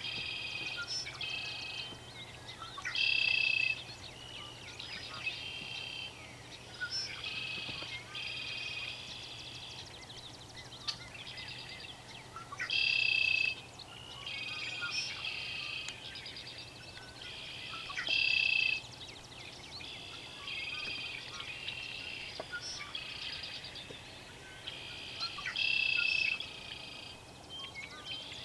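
Several songbirds singing in overlapping phrases, with a louder song phrase of about a second coming back every five to ten seconds.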